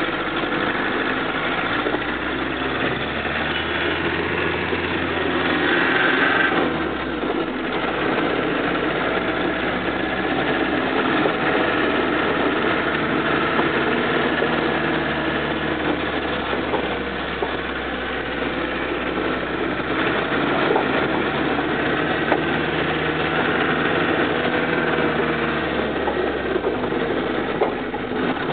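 Car engine running under way, heard from inside the cabin with road noise beneath it; the engine note dips and shifts about six or seven seconds in, then holds steady.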